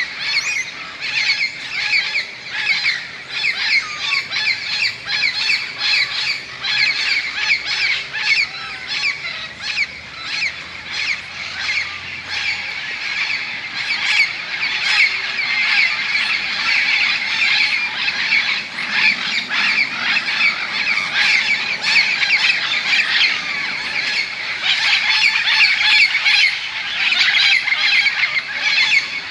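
A large flock of parrots squawking together as they gather at their evening roost: a dense, continuous chorus of many overlapping harsh calls, very noisy.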